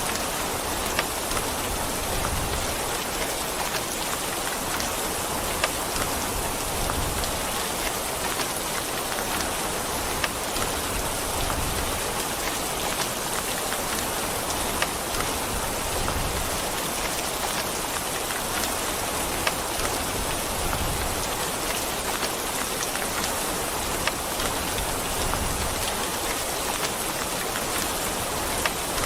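Steady rain, an even hiss with scattered sharp, close drop impacts every few seconds.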